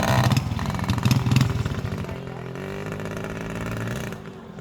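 Small motorbike engine revving as the bike rides off, loudest in the first second and a half, then running more evenly and fading, dropping away about four seconds in.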